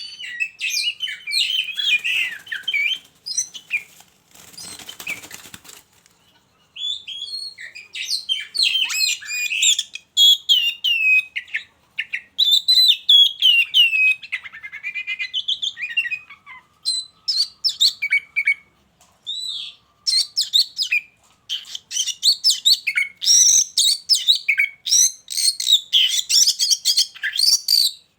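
Oriental magpie-robins singing in quick, varied whistled and chirping phrases, with short pauses between bouts. About four seconds in there is a brief noisy flurry.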